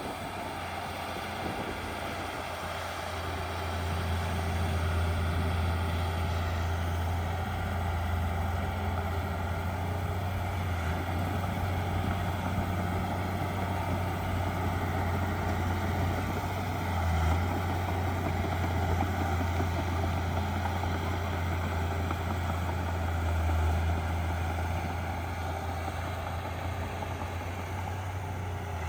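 Diesel engine of heavy earthmoving machinery running steadily with a deep hum, getting louder about four seconds in.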